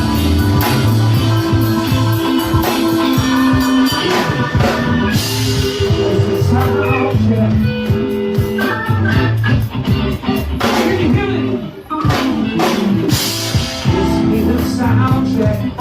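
Live rock band playing: guitar, bass and drum kit, with a voice singing. The music drops back briefly about twelve seconds in.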